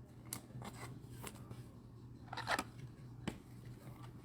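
Baseball cards being handled and shuffled through by hand, with faint scattered clicks and rustles and a short burst of them about two and a half seconds in, over a faint steady low hum.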